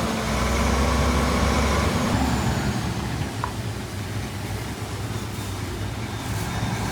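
Heavy diesel construction machinery running: a low engine rumble with a steady hum that eases off about two seconds in, then continues more evenly.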